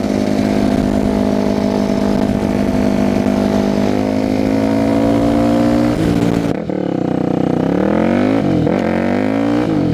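Yamaha WR450F supermoto's single-cylinder four-stroke engine, loud through a blown-out FMF slip-on exhaust, pulling steadily with its pitch climbing slightly. About six and a half seconds in the throttle closes, and the engine pitch then falls and rises several times as the bike slows.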